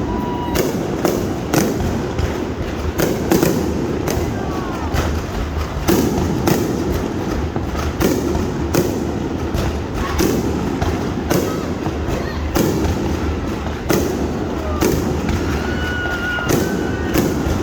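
Fireworks display: a dense, irregular run of bangs and booms, several a second, over a steady low rumble, with a few short whistling tones.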